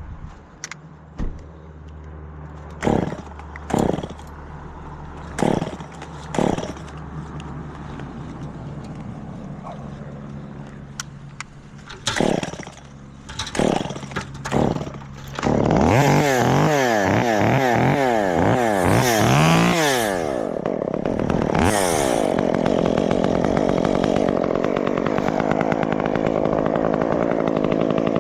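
Chainsaw idling, with a series of sharp knocks over the first fifteen seconds or so. About sixteen seconds in it is revved up and down several times, then held at high revs steadily to the end.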